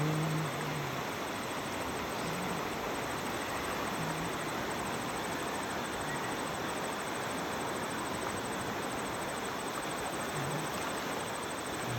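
Steady rush of flowing river water, with fast, faint insect chirping running high above it.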